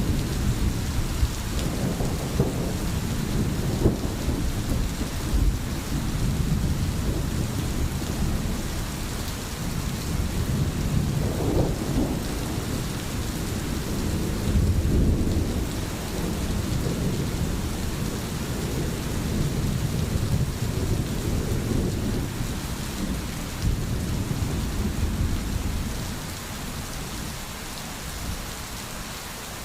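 Steady rain falling, under a low, rolling rumble of thunder that swells and fades, easing somewhat near the end.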